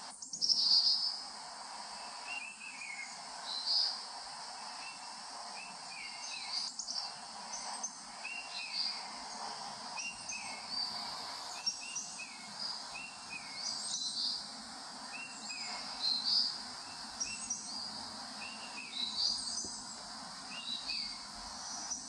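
Birds singing, with short chirping phrases repeated every second or two in two overlapping voices, one lower and one higher, over a steady background hiss of natural ambience.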